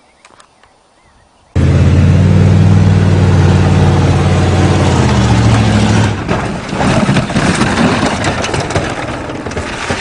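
Saturn car's engine running hard at a steady pitch, cutting in suddenly about a second and a half in. From about six seconds in the engine tone gives way to rough, rattling noise with many knocks as the car runs off over the ground.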